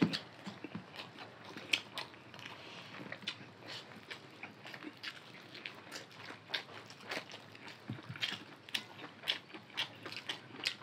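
Close-miked eating: chewing and mouth smacking as people eat rice and chicken curry by hand, heard as many small irregular clicks and wet smacks.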